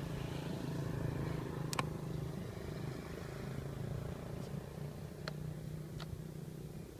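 Steady low engine hum, with a few sharp clicks about two, five and six seconds in.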